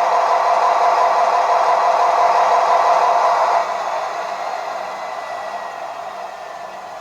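OO scale model locomotive running on the layout with a steady whirring noise that drops sharply about halfway through and then fades away.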